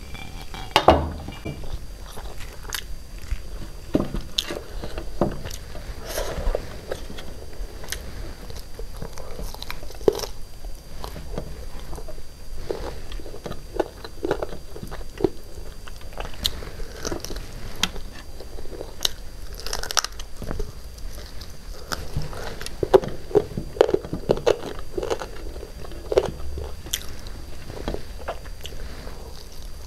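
A person chewing and biting on chicken biryani eaten by hand, with irregular wet mouth noises and small clicks throughout. There is a sharp knock about a second in.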